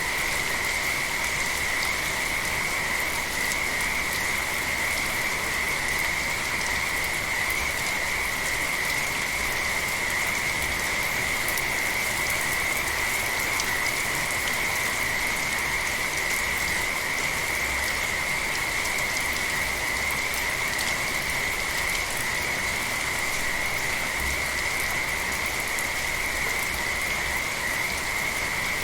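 Steady rain with a chorus of frogs calling without a break, a continuous high-pitched trilling drone over the hiss of the rain.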